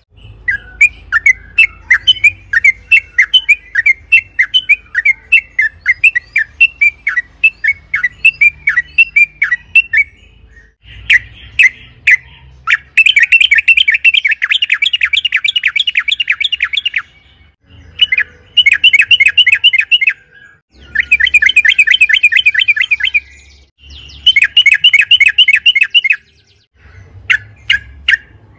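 Yellow-vented bulbul (trucukan) singing: about ten seconds of separate, quick rising notes, then several fast chattering rolls of two to four seconds each, with short pauses between them.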